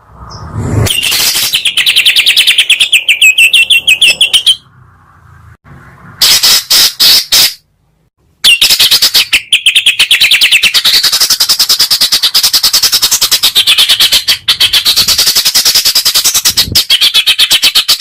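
A songbird chattering in very rapid, evenly repeated harsh notes. It calls in a run of a few seconds, gives a short burst about six seconds in, then chatters without a break from about eight and a half seconds on.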